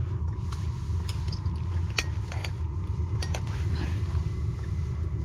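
A knife blade scraping and clicking against the bent point of a steel fishing hook, which is being straightened, in scattered small sharp ticks over a steady low hum.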